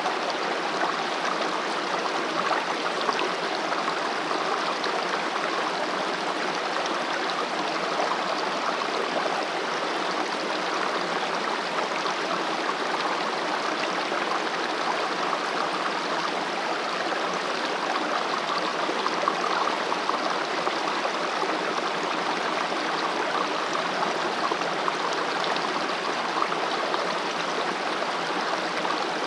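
Mountain valley stream running over rocks: a steady, even rush of flowing water.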